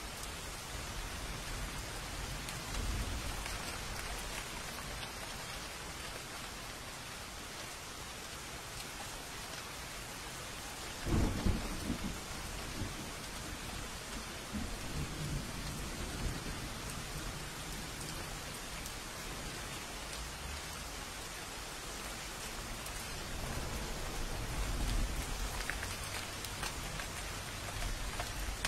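Steady rain falling, with thunder: a sharp, loud thunderclap about eleven seconds in, trailing off into low rumbling, and softer distant rumbles at other times.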